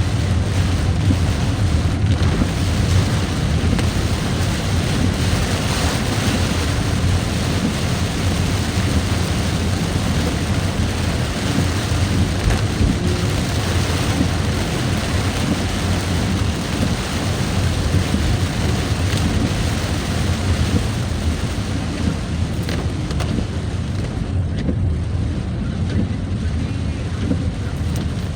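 Steady low rumble of wind buffeting the microphone and road noise from a moving vehicle, with no breaks.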